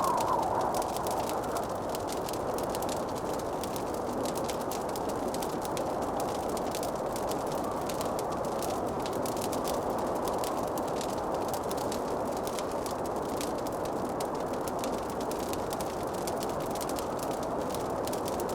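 Wood fire crackling in a fireplace: a steady rushing hiss, dense with small sharp crackles.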